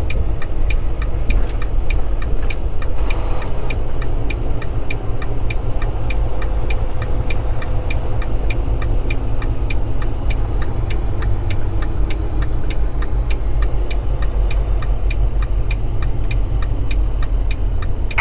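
Inside a semi-truck's cab: the diesel engine rumbles steadily while the turn signal ticks evenly, about two ticks a second.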